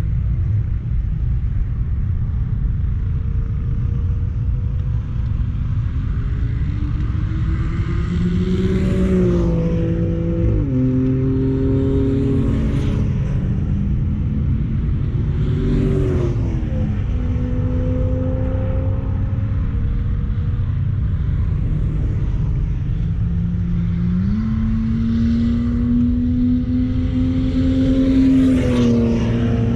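Turbocharged 1.8-litre four-cylinder engine of a 1999 Mazda Miata under hard track driving. It climbs in pitch for several seconds and drops sharply on each lift or gear change, about five times, over steady wind and road noise.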